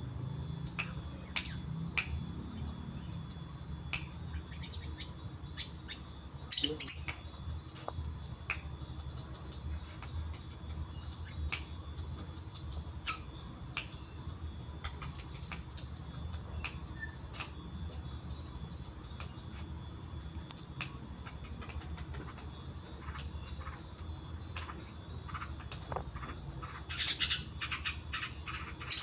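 Long-tailed shrike (cendet) calling: short, sharp notes scattered throughout, with a louder burst of calls about seven seconds in and again near the end.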